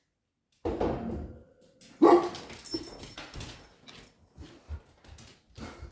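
Dog barking several times, in short separate barks with the loudest about two seconds in; the barking is at nothing.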